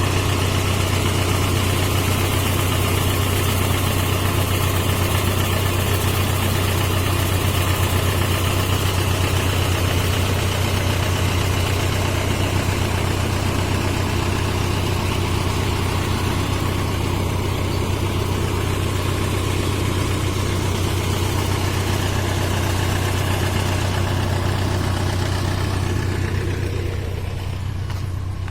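Tractor diesel engine running steadily at a constant speed, with a strong low hum. About two seconds before the end the sound turns duller and a little quieter.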